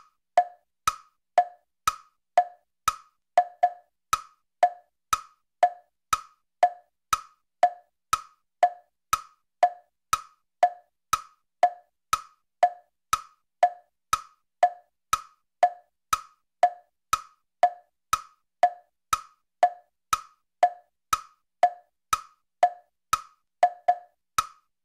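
Clock ticking steadily in a tick-tock, about two ticks a second, alternating between a lower and a higher click.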